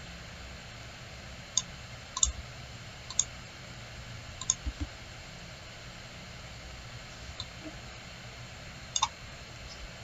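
Computer mouse clicking: about seven short, sharp clicks at irregular intervals over a steady low background hum.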